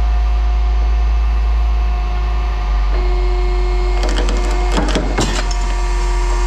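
Steady low rumble of a vehicle running, with a faint steady hum over it. A short burst of crackling clicks comes about four to five seconds in.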